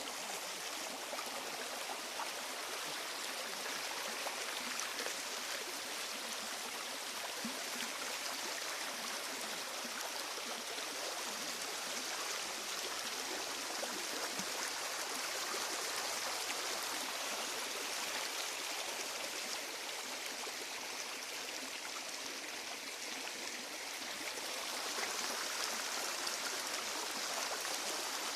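Running water of a stream, a steady rushing hiss with no change in pitch.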